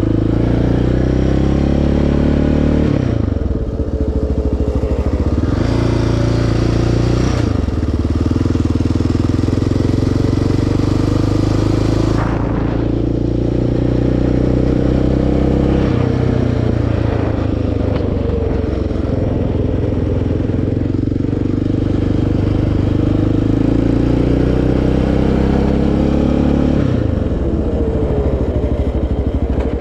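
A quad's single-cylinder four-stroke engine running hard on a trail, its revs climbing and dropping again and again as the throttle is worked, with clattering from the machine over rough ground.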